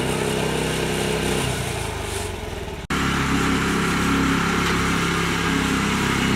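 Mini tractor engine running steadily, with a sudden brief dropout almost three seconds in before it carries on.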